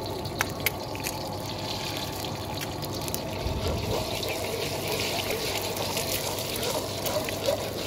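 Hot oil sizzling and crackling in a wok as an egg fries in it, with a metal ladle working in the pan. A few sharp ticks stand out in the first second.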